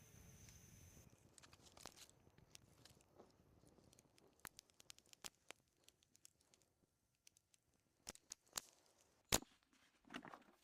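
Faint, scattered small clicks and crackles, with one sharper click about nine seconds in and a brief rustle just after it.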